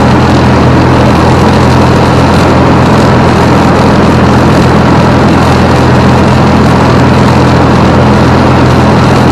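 Piper Comanche 250's six-cylinder Lycoming O-540 engine and propeller running steadily, a loud even drone with a low hum.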